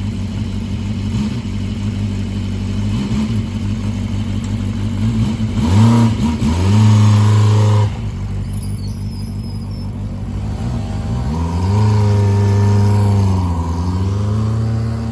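Exhaust note of a 250cc four-cylinder engine in a Suzuki Choinori scooter, running through an aftermarket muffler. It idles, is revved up and held for about two seconds, drops back, then is raised and held again near the end.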